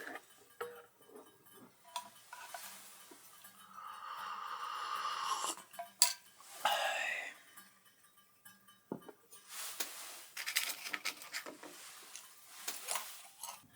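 Dishes and utensils being handled: scattered clinks and knocks, with one sharp clack about six seconds in.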